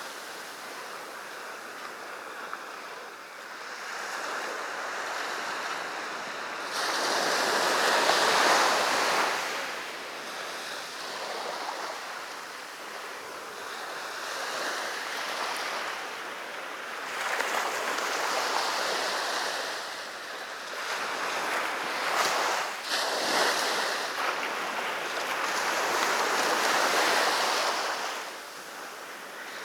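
Sea waves breaking and washing up the beach, swelling into a louder surge every several seconds and falling back between.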